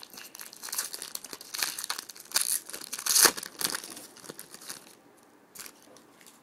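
Trading-card pack wrapper being torn open and crinkled by hand: a dense crackling that is loudest about three seconds in and dies away after about five seconds.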